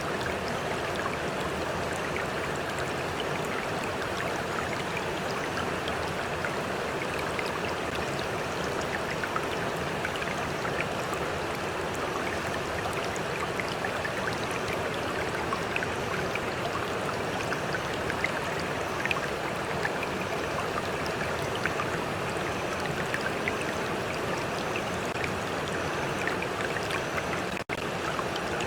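A stream flowing steadily, with water lapping and small splashes ticking close by. The sound cuts out for an instant near the end.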